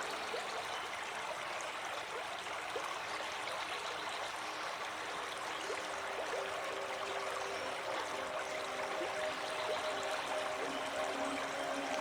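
Water rippling and trickling: an even, splashy hiss full of small drips.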